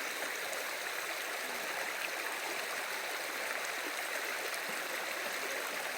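Water running steadily, an even rushing with no change.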